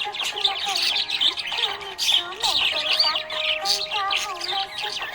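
Budgerigars chirping and warbling in a continuous, dense chatter of quick high chirps.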